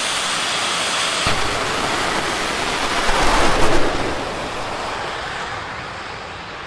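Jet drag racer's turbine engine running with a steady high whine, jumping suddenly about a second in, loudest around three to four seconds in, then fading away.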